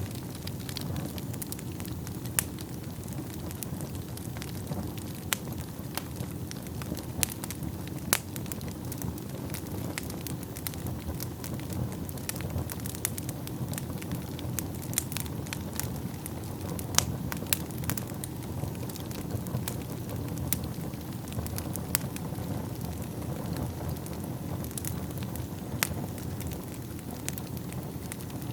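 Wood fire burning in a fireplace: a steady low rumble of flames with irregular sharp crackles and pops from the burning wood, a few of them louder.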